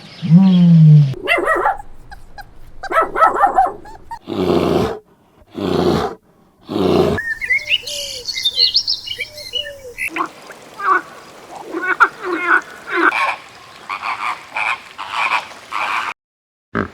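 Different animal calls played one after another, each cut off abruptly before the next begins. They include a run of short, loud calls and high bird chirps about the middle.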